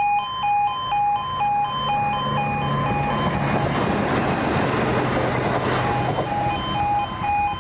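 A Class 170 Turbostar diesel multiple unit passing over the level crossing, its engine hum and rail noise swelling to a peak about halfway and then fading. Through it the crossing's E2S Appello alarm keeps up its alternating high-low two-tone, about two cycles a second, drowned out while the train is closest.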